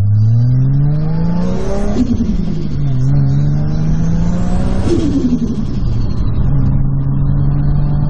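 Toyota Supra's engine heard from inside the cabin, revving up under hard acceleration. The pitch climbs, drops at a gear change about two seconds in, climbs again and drops at a second shift about five seconds in, then holds steady.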